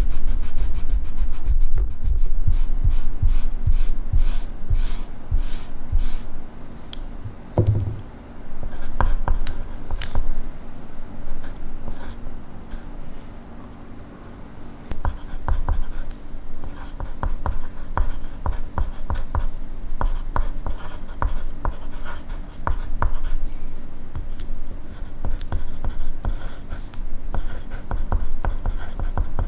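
Pencil writing on paper: a run of short, irregular scratching strokes, close up.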